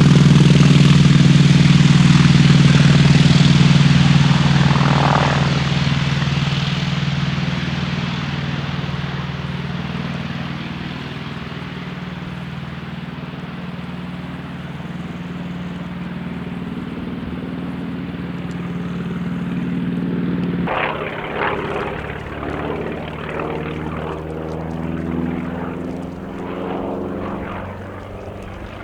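North American T-28 Trojan's Wright R-1820 nine-cylinder radial engine and propeller droning in flight, loud at first and fading over several seconds as the plane draws away. About two-thirds of the way in the note changes suddenly and then wavers in pitch and loudness as the aircraft turns.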